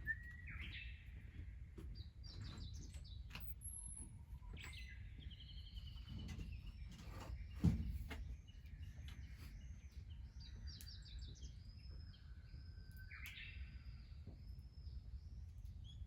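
Small birds chirping and calling, with a quick run of repeated arched chirps through the second half, over a low steady rumble. Scattered small clicks throughout, and one sharp knock about eight seconds in.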